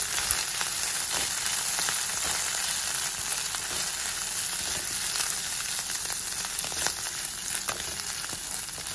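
Boiled shrimp pieces and chopped garlic sizzling steadily in hot oil in a kadai, stirred with a wooden spatula that gives a few light scrapes.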